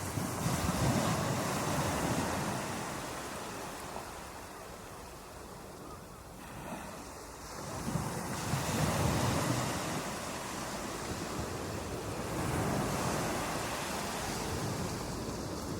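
Ocean waves breaking on a beach, a continuous wash of surf that swells and recedes, with the louder surges at the start, at about eight seconds and again near the end.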